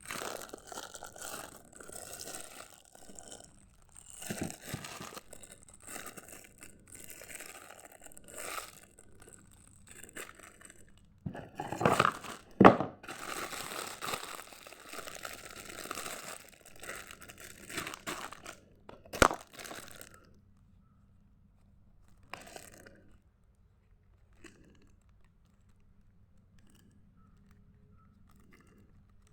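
Packaging being crinkled and torn open by hand, with two sharp loud snaps about twelve and nineteen seconds in. The handling then dies down to a few faint taps.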